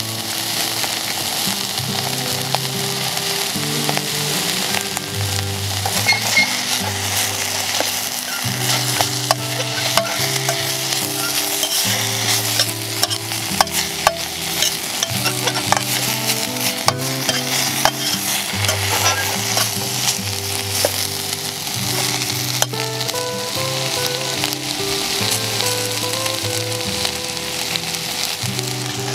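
Food frying in a stainless steel canteen cup over a canister gas stove, a steady sizzle with clicks of metal now and then as the cup is handled.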